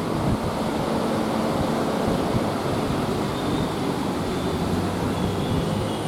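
Steady noise of road traffic from busy roads and flyovers, an even rush with no single vehicle standing out.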